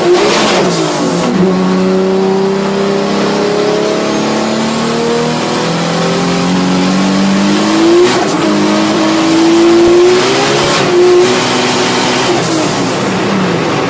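Turbocharged car engine accelerating hard: its pitch climbs steadily, then drops at a gear change about eight seconds in and again about eleven seconds in. Each shift brings a short hissing burst as the turbo's boost is released.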